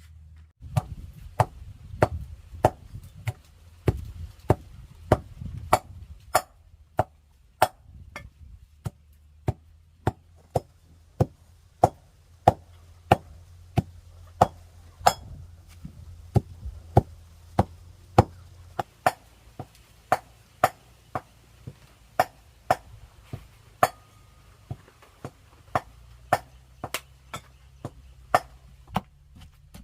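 A knife chopping on a cutting board, in steady, even strokes about twice a second.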